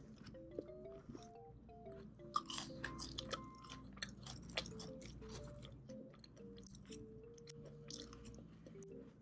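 Close-miked chewing and crunching of crisp fried food, with many short crackly bites, densest a couple of seconds in, over soft background music.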